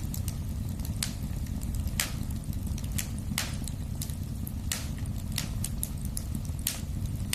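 Wood fire crackling in a fireplace: a steady low rumble of burning with frequent sharp pops and snaps, several a second, a few of them louder.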